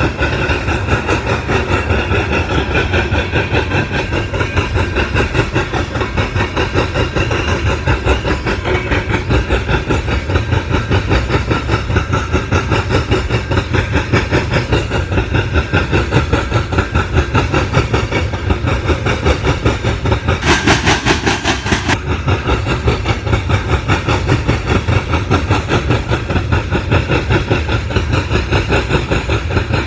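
Freight train cars rolling past, their wheels clacking over the rail joints in a fast, even rhythm, with a brief hiss about two-thirds of the way through.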